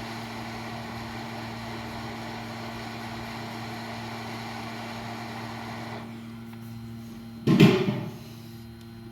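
A steady hiss over a low mains hum that eases off about six seconds in, followed by one brief loud clatter or knock a second and a half later.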